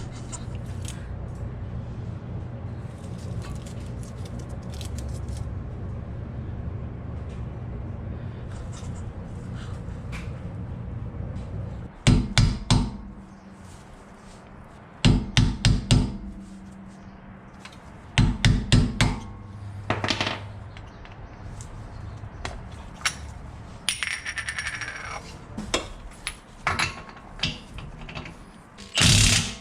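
Shop work on a car: a steady low hum with light metal clinks, then from about twelve seconds in several short, loud bursts from a cordless impact wrench, with tools clinking between them.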